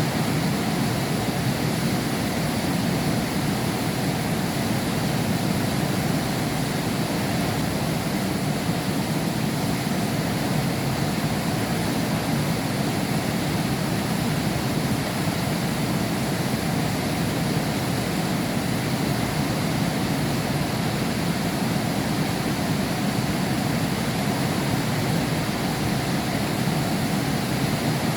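Heavy rain falling steadily, heard from behind window glass, as an even rushing hiss with no thunder.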